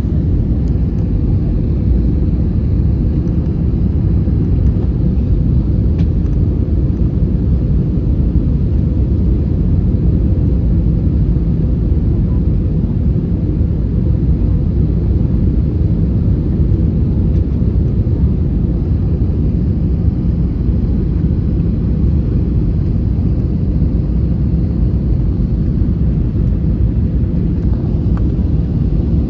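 Steady low rumble inside the passenger cabin of an Airbus A321 airliner, from its engines and the airflow, with a faint steady hum above it.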